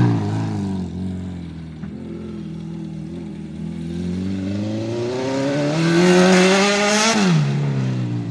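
Acura RSX race car's four-cylinder engine pulling with its pitch rising steadily, then falling sharply about seven seconds in as the throttle is lifted.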